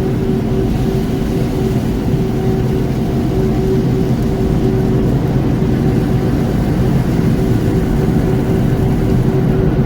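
Automatic tunnel car wash machinery heard from inside the car's cabin: a steady, loud rumbling wash with a constant hum running through it.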